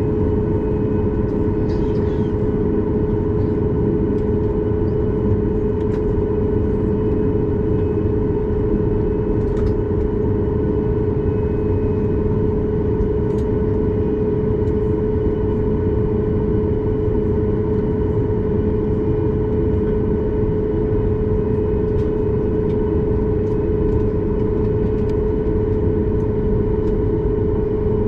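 Cabin noise inside a Boeing 737 MAX 8 with its engines at a steady idle before takeoff: an even rumble with a constant hum, and a few faint clicks. The level stays flat, so the engines are not yet spooling up for the takeoff roll.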